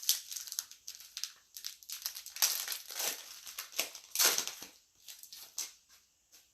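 Trading card pack wrapper crinkling and crackling as it is handled, with irregular crunches, the loudest about two and a half and four seconds in, fading near the end.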